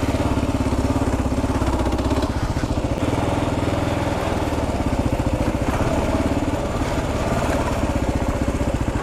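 Kawasaki KLR 650's single-cylinder four-stroke engine running at low, fairly even revs as the dual-sport motorcycle is ridden along a dirt trail.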